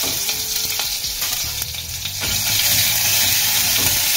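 Ginger sizzling in hot oil with mustard seeds in a hammered stainless-steel kadai: a steady frying hiss. In the second half a flat metal spatula stirs and scrapes the pan, and the sound grows a little louder.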